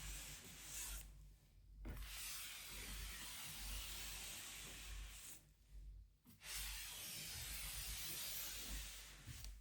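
Continuous rubbing over a surface during cleaning, a soft hissing scrub in three long stretches with two brief pauses.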